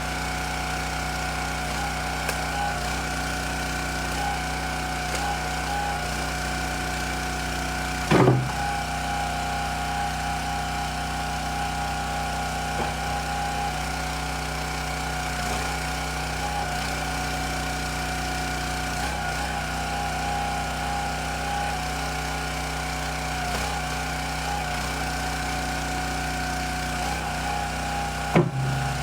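Small gasoline engine running steadily. A sharp loud knock comes about eight seconds in and another near the end.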